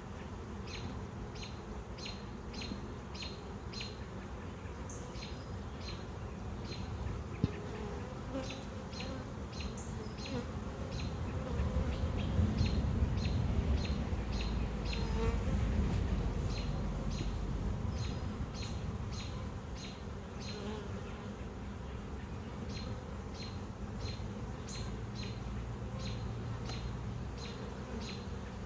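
Honey bees buzzing steadily around an open hive, with a high short chirp repeating about twice a second and a low rumble that swells in the middle.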